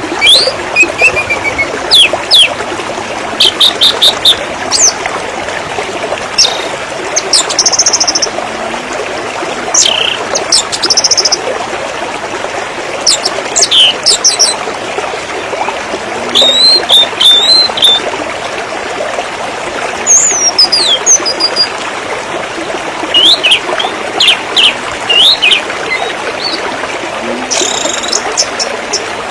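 Several birds chirping and trilling in short bursts, over a steady rush of running water.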